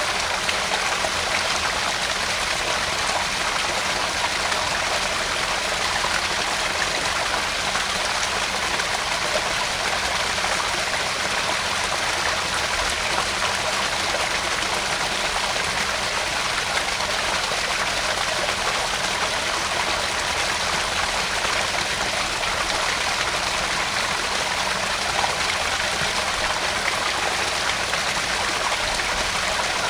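Small garden pond waterfall, water splashing and trickling steadily into the pond.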